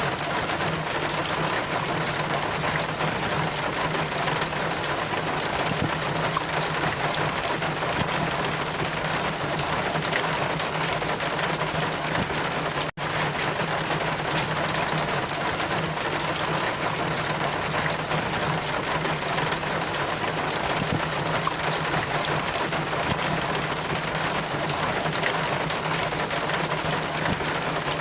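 Steady rain, an even hiss with a low hum beneath it, cutting out for an instant about halfway through.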